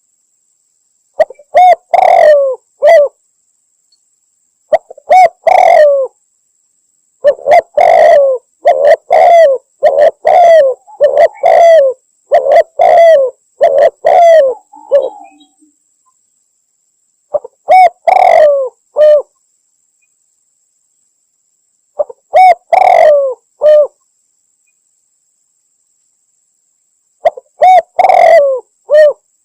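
Spotted dove (tekukur) cooing in repeated short phrases of a few coos each, with one longer run of coos in the middle and pauses of a few seconds between phrases. This is a lure recording used for hunting spotted doves, presented as a female calling to a male. A faint steady high whine runs underneath.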